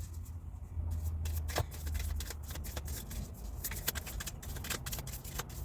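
Tarot cards being shuffled by hand: a dense, irregular run of quick card snaps and slaps.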